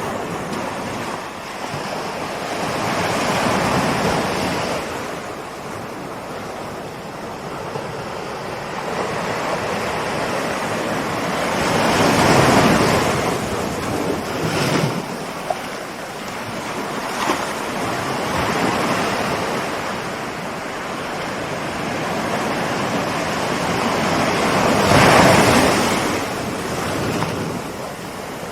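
Ocean surf: waves rolling in and breaking, the wash swelling and fading over several seconds, with three bigger breakers and a couple of brief sharp splashes.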